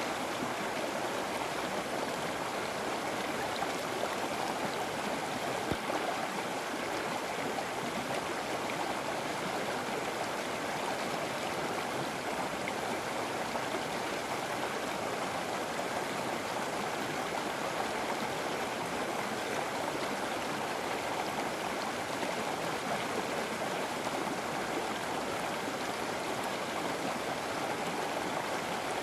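A river flowing: a steady rush of running water with a light gurgle.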